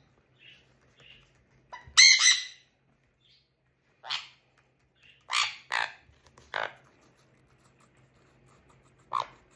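Conure parrot squawking: one loud, harsh squawk about two seconds in, then a series of short, sharp calls.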